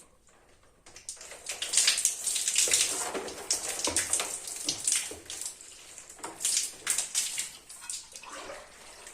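Water splashing and running in irregular bursts, starting about a second in, as things are washed by hand.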